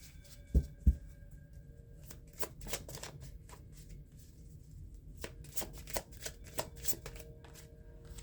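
A tarot deck being shuffled by hand: a scattered run of short, sharp card clicks and riffles, with two low thumps about half a second in, the loudest sounds.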